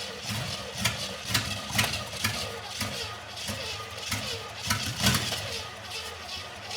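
Small-block Chevy 350 V8 being cranked and firing unevenly, coughing in irregular sharp pops without settling into a steady run. The owner blames its carburetor, which has no working accelerator pump, for its failure to keep running.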